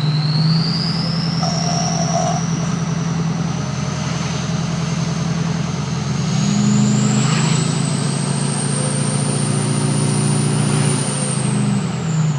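Ford 6.0 Power Stroke V8 turbodiesel with a Powermaxx stage 2 turbo and straight-piped stack running under power, its turbo whistle high above the low engine drone. The whistle climbs in pitch early on, climbs again midway and holds, then falls away near the end.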